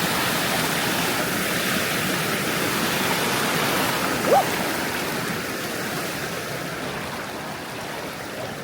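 Waterfall rushing steadily with a loud, even splash of falling water. About four seconds in a person gives a short "Woo!".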